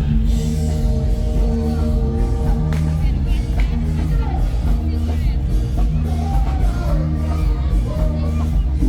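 Amplified band music with a singer, loud and unbroken, with crowd voices mixed in.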